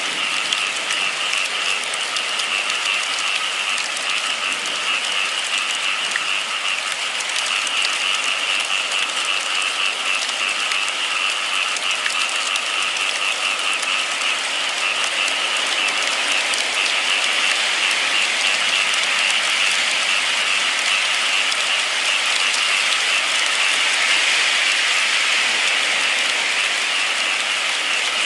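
Steady rain, a dense even patter of drops that keeps on without a break.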